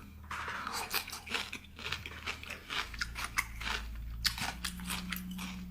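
A person biting and chewing sour-spicy cucumber salad, a run of irregular crisp crunches.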